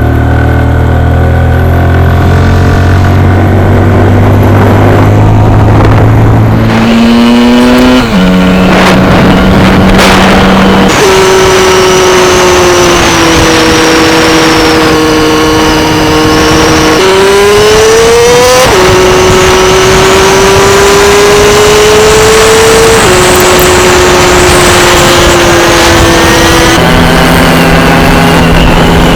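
A vehicle engine pulls up a steep mountain road, loud and steady. Several times its pitch climbs and then drops suddenly as it shifts gear.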